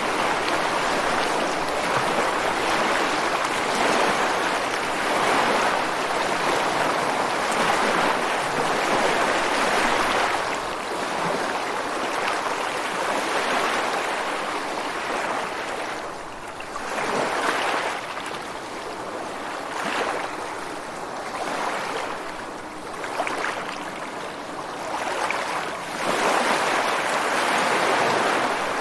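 Ocean waves breaking and washing over rocks on the shore, a continuous rushing surf that swells and eases. It thins out for several seconds past the middle, then builds again near the end.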